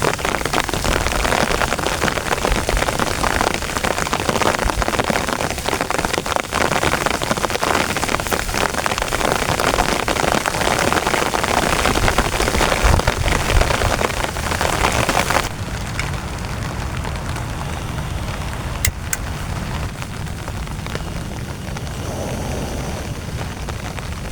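Heavy rain pounding on a tent. It is a dense, steady hiss until about three-quarters of the way through, where it drops suddenly to a quieter, duller patter.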